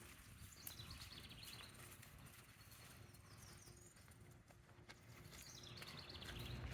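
Faint outdoor quiet with a small bird singing: a short, rapid trill of high notes about half a second in, repeated near the end, with a few quick falling chirps in between.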